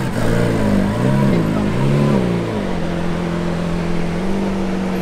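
Lamborghini Centenario's V12 engine revved three times in quick succession from idle, each rev rising and falling back. It then settles into a steady idle about halfway through.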